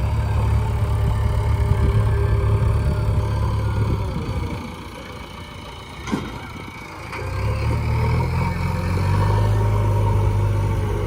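Heavy diesel engine running with a deep rumble that falls away for a few seconds mid-way, then comes back up. There is a single sharp knock about six seconds in.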